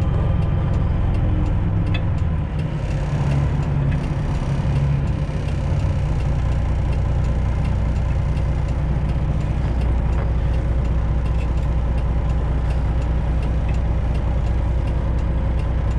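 Straight-piped Detroit diesel engine of a semi truck running at low speed, a steady low rumble. About six seconds in, its note drops lower and evens out.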